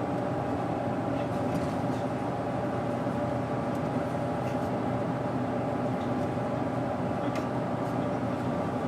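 Doosan GE12Ti natural-gas engine of a 2007 Daewoo BS110CN bus running at a steady, unchanging pitch.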